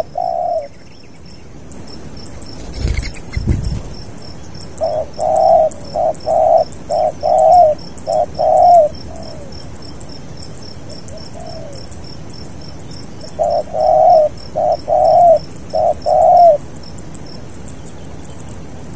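Spotted dove (tekukur) cooing in two phrases of several short notes each, over a steady, faint, fast high ticking chirp. There is also a brief low thump about three seconds in.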